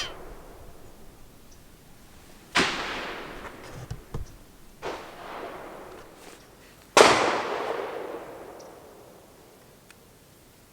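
Gunshots from a 9mm Glock 19 pistol on an outdoor range: two loud, slow-paced shots about four and a half seconds apart, each trailing off in a long echo. Fainter sharp cracks fall between them.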